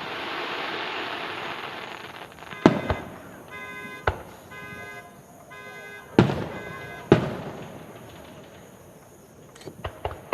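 Fireworks display: a crackling hiss for the first couple of seconds, then about four loud shell bursts going off a second or so apart, and lighter pops near the end. A steady pitched tone sounds three times in the middle.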